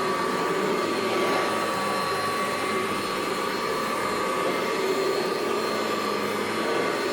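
1982 Kirby Heritage 1 upright vacuum cleaner running steadily, its motor whining with a constant high tone over a rushing airflow. It is running well on a fresh drive belt and sounds pretty good.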